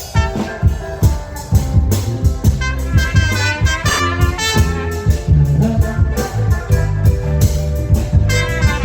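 Live band playing an instrumental passage with no vocals: a melodic lead line over a bass line and a steady drum beat.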